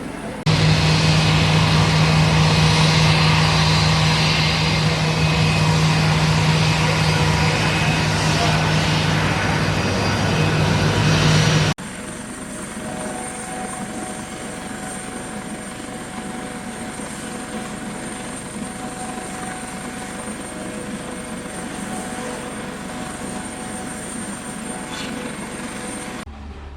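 Military aircraft engines running, heard in two cut-together clips: first loud with a steady low drone, then, after an abrupt cut about twelve seconds in, a quieter steady engine hum with a thin high whine.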